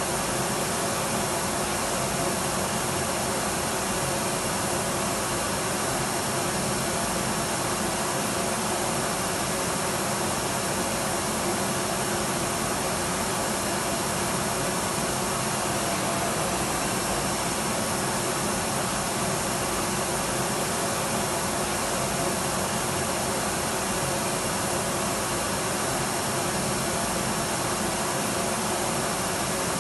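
Electric vacuum cleaner running steadily: an even, unbroken rushing hiss with a faint steady hum underneath, holding the same level throughout.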